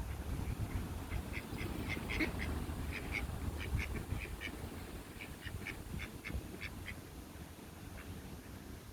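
Duck calling: a run of short, quick calls, about two or three a second, starting about a second in and stopping near seven seconds.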